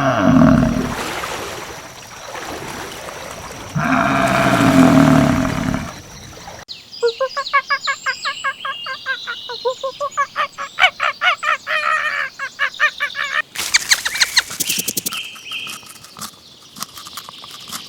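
Animal calls in three stretches: a drawn-out pitched call, repeated twice, then a fast run of short, repeated high notes, then high chirps mixed with clicks.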